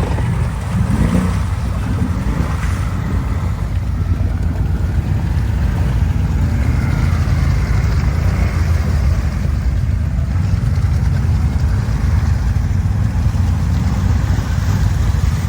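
Quad (ATV) engine running steadily while riding, a continuous low rumble.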